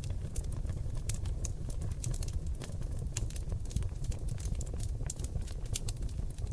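Oak logs burning in a fireplace: dense, irregular crackles and sharp pops over a steady low rumble of flame.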